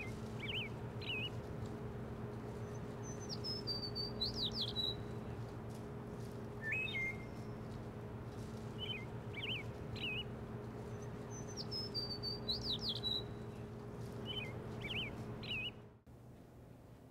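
Small birds chirping in short phrases every couple of seconds over a steady low hum; the same phrases come round again about eight seconds apart. The sound cuts off suddenly near the end.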